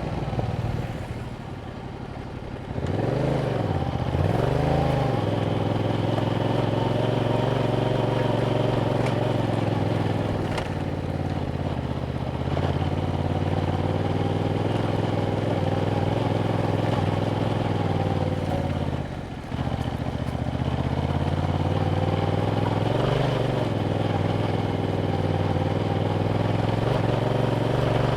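2021 Yamaha MT-07's parallel-twin engine running through its stock exhaust while riding. Two quick revs rise and fall a few seconds in, then it runs at a steady engine speed, with a brief dip in the engine note a little past halfway.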